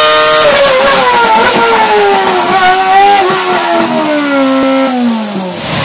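Renault Formula 1 engine on test, its revs falling from a high, steady pitch and wavering downward over about five seconds until it dies away near the end.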